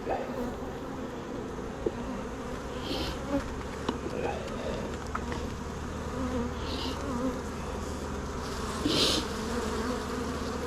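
Many honeybees buzzing steadily around an open hive during a frame inspection, with a few light clicks and three short hisses.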